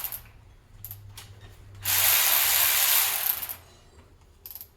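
A power ratchet runs in one burst of about a second and a half, loosening an engine bolt, with a couple of short blips around it.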